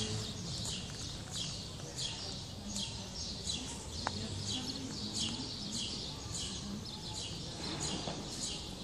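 A bird calling over and over: a steady string of short, high chirps, each falling in pitch, repeating about every two-thirds of a second.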